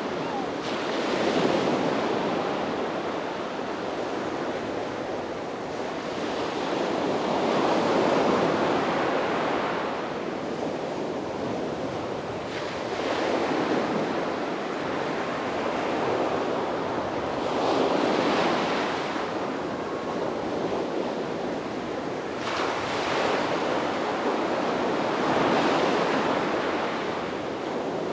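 Sea waves breaking and washing up on a beach, swelling and falling back in slow surges every few seconds.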